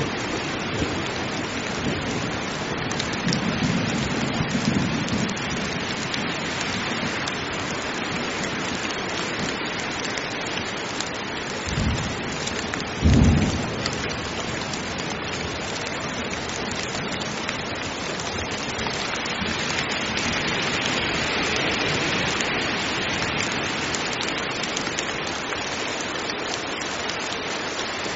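Heavy rain pouring steadily, with thunder: a low rumble a few seconds in, then two short, loud thunderclaps close together near the middle.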